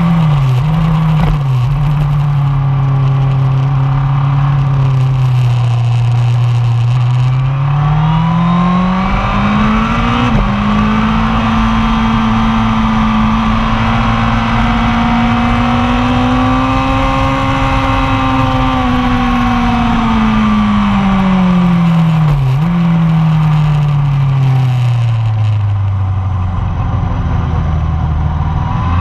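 1999 Yamaha R1's inline-four engine running under load, its pitch rising and falling with the throttle. The note holds steady for several seconds, then climbs and drops suddenly at a gear change about a third of the way in. It then swells slowly, falls away, sinks low near the end and starts to climb again.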